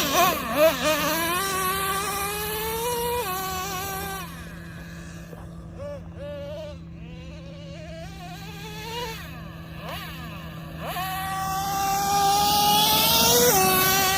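A Traxxas Nitro Revo 3.3's small two-stroke nitro engine revs at high pitch with a buzzing whine under throttle. Its pitch climbs and then drops sharply about 3 s in and again near the end. The engine is quieter through the middle, with shorter pitch swings, and gets loud again from about 11 s.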